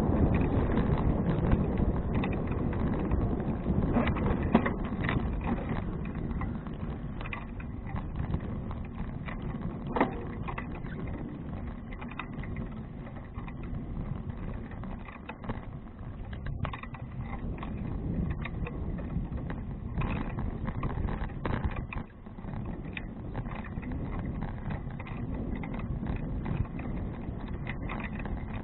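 Steady rushing noise of a Fuji Touring bicycle being ridden: wind on the action camera's microphone and tyres on the road. It is loudest at the start and eases off, with a few sharp clicks or knocks, the sharpest about ten seconds in.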